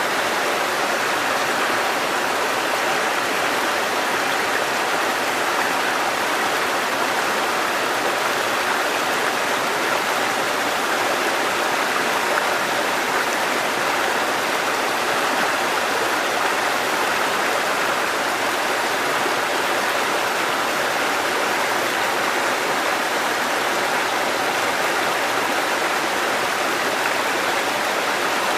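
Water cascading over rocks in a mountain stream, a steady, even rushing.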